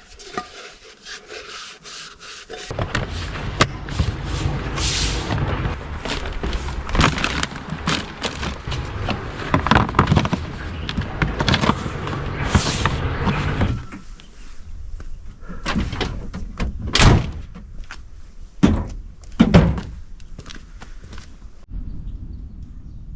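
Knocks, clatter and thumps of gear being packed away and lids or doors shut, over a steady low rumble for the first half. A few separate heavy thumps come near the end.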